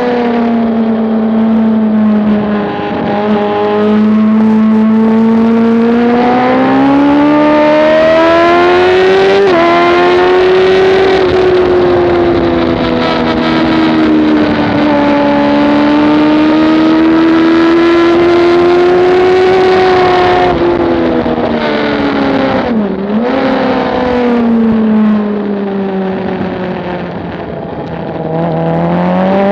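Motorcycle engine being ridden hard, its pitch climbing and falling with throttle and gear changes; it drops sharply about two-thirds of the way through, then climbs again near the end. Steady wind rush on the microphone underneath.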